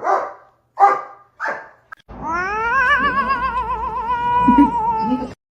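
A cat gives three short meows, then about two seconds in a long, drawn-out yowl that rises and then wavers for about three seconds before cutting off suddenly.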